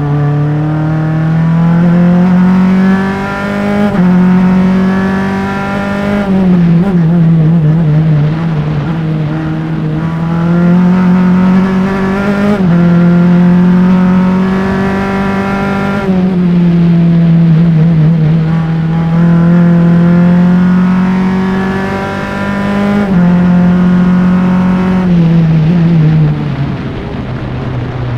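Formula Enterprises single-seater race car's engine at racing speed, heard close up. It revs up through the gears with quick upshifts, and several times drops away in steps as the driver brakes and downshifts for corners, then accelerates again.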